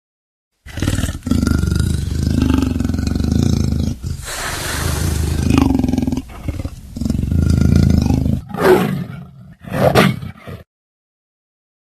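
A big cat growling with a long, low rumbling roar, broken by a few short pauses, then two short calls near the end.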